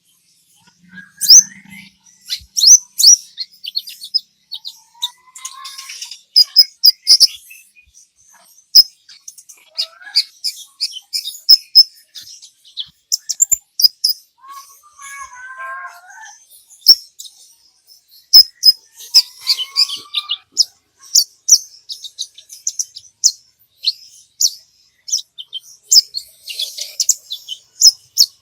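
Kolibri ninja sunbird singing in full 'gacor' song: a fast, continuous string of sharp, high chirps and trills, with a few lower gliding whistled phrases here and there.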